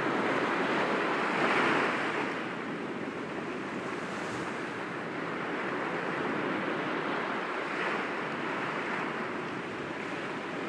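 Sea waves washing gently against rocks, a steady rush that swells about a second and a half in and again near the end.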